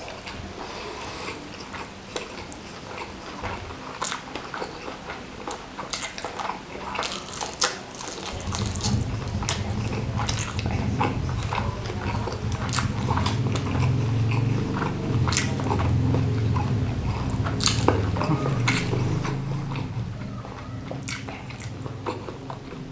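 Close-miked mouth sounds of someone eating salted-squid sambal with rice: many sharp wet clicks, smacks and bites throughout. From about 8 s in, a louder low rumble of chewing joins them and fades again near the end.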